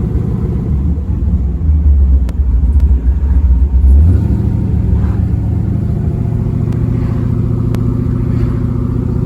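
Drag race car's engine running loud and low, strongest for a couple of seconds before settling to a steadier, slightly quieter run about four seconds in.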